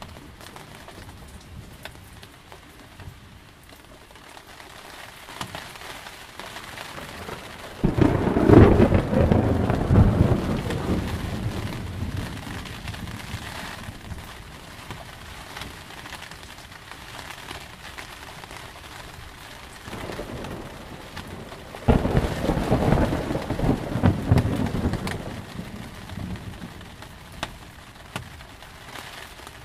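Steady rain falling, with two loud claps of thunder that break in suddenly and rumble away over several seconds, the first about a quarter of the way in and the second about three quarters of the way in.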